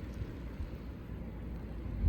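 Snowstorm wind buffeting the microphone: a low, fairly steady rumble.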